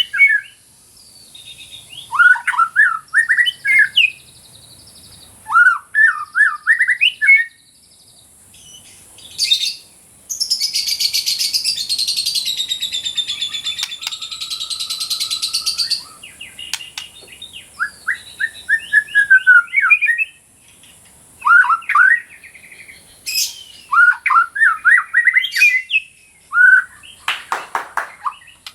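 A white-rumped shama (murai batu) singing in full song: short phrases of quick rising notes repeated every couple of seconds, with a long harsh rattling stretch about ten seconds in that lasts some six seconds.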